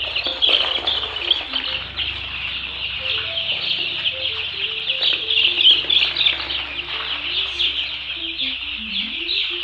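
A large flock of four-day-old Arbor Acres broiler chicks peeping continuously in a dense, high chorus. Background music with a slow stepping melody plays under it.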